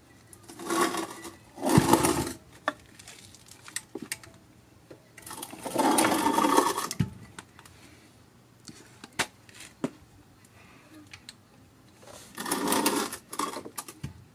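Small cordless power tool motor running in four short bursts: two brief ones near the start, a longer one in the middle, another near the end, with small metal clicks between. It is driving bolts back into the engine.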